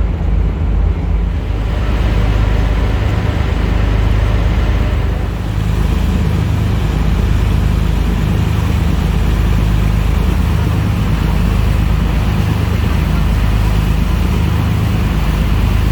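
Steady low drone of a river passenger motor ship's engine underway, with a rushing noise of wind and water over it that grows louder about two seconds in.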